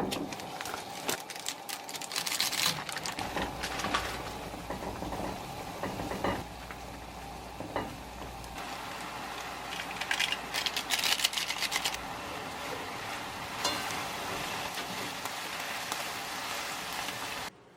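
Food sizzling in a frying pan, with the clicks and scrapes of a utensil stirring it.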